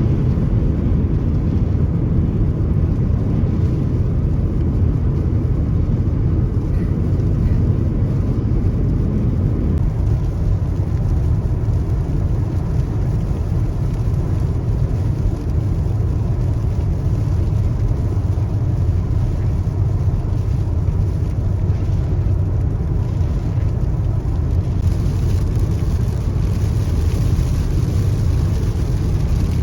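Steady low rumble of a car driving, road and engine noise heard from inside the vehicle, with a higher hiss that grows stronger near the end.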